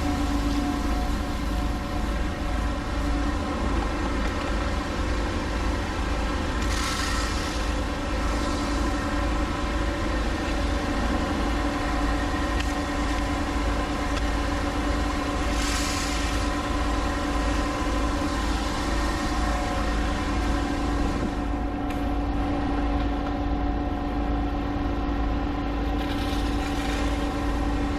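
A heavy engine running steadily with a constant hum and low rumble. Brief hissing rushes come three times, about a quarter, halfway and near the end.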